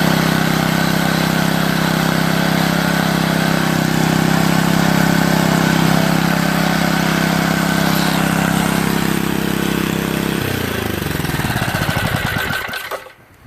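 Old roto-tiller's small four-stroke engine running steadily on a test run after sitting unused for a couple of years. About ten seconds in it is shut off, and it slows and stops near the end.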